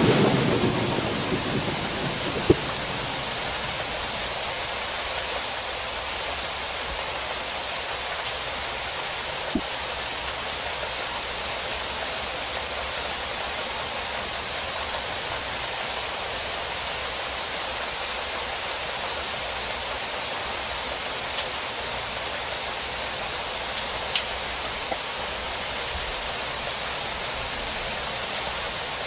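Steady rain falling, an even hiss throughout. The tail of a thunder rumble fades out in the first second or two, and a few sharp taps stand out, the clearest about two and a half seconds in.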